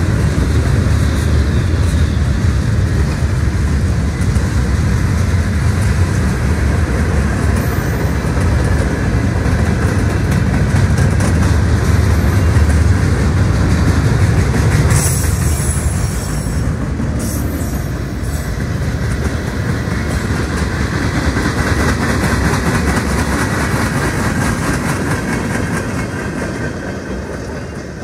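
Freight train cars rolling past close by: a steady heavy low rumble of wheels on rail, with a few brief high-pitched wheel squeals about halfway through. The sound falls away near the end as the last cars pass.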